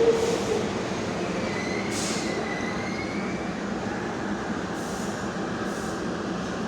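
R142A subway car running at speed between stations, heard from inside the car: a steady rumble of wheels on rail with a low hum, a short knock at the start, and a thin wheel squeal about two seconds in.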